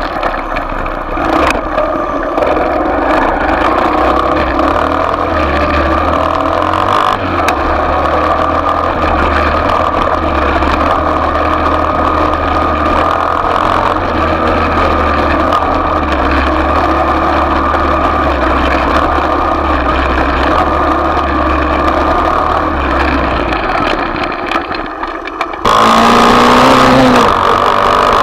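Small off-road motorcycle engine running steadily under way. Near the end the sound cuts abruptly to a louder, closer engine note that holds one pitch.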